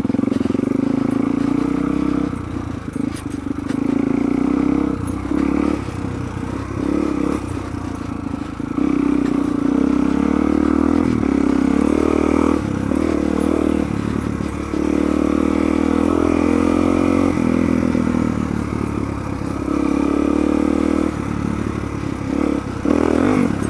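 Suzuki DR-Z400's single-cylinder four-stroke engine running on a dirt trail, the throttle opening and closing so that the engine note rises and falls every few seconds.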